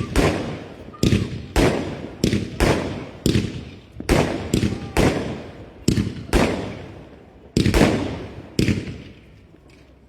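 Fireworks going off: a fast series of sharp bangs, about one or two a second, each trailing off in a rolling echo, with the bangs thinning out near the end.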